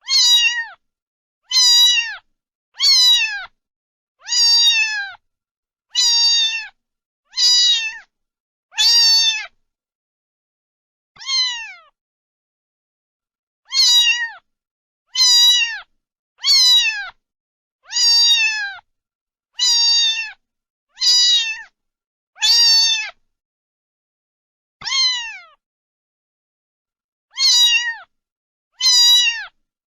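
Domestic cat meowing over and over, about eighteen short calls, each falling in pitch at its end, with dead silence between them and a few longer pauses.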